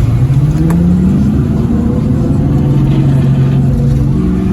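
Car engine revving: the pitch climbs over about the first second, then holds steady at high revs.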